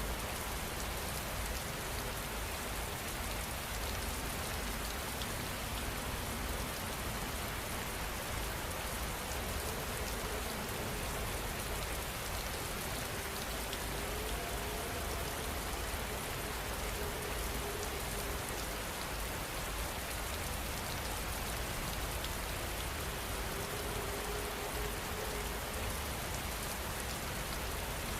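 Steady rain falling on a surface, an even hiss with fine pattering drops that holds without change.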